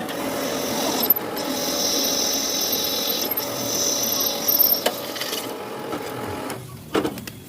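A tool working on the metal of a sprocket, a steady rasping noise that starts about a second in and stops about four and a half seconds later.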